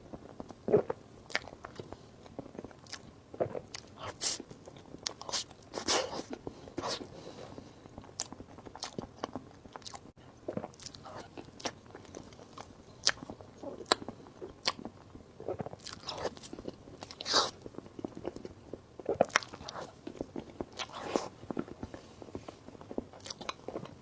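Close-miked eating sounds: a person biting and chewing soft sweets and sandwiches, with irregular wet mouth smacks and sharp clicks.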